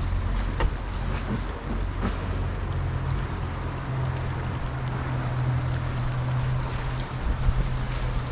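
Motorboat engine running steadily with a low hum, with water and wind noise around it.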